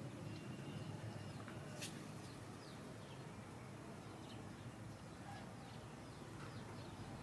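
Small birds chirping in the background: scattered short, high notes that drop in pitch, over a steady low hum, with one sharp click about two seconds in.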